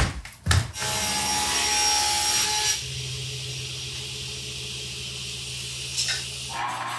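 An electric power tool working wood. After a couple of knocks the motor starts with a loud cutting noise for about two seconds. It then runs on with a quieter steady hum until it stops near the end.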